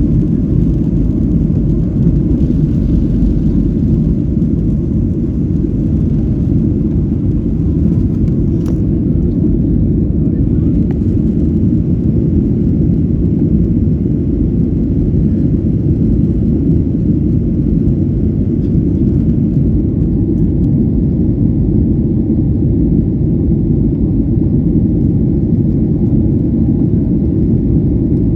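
Airliner cabin noise: a steady, deep rumble of the jet engines and airflow heard from inside the passenger cabin, unchanging throughout.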